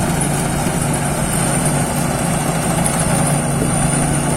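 Thai Seng Yont rice combine harvester running steadily while harvesting rice: an even engine drone with a thin high whine above it.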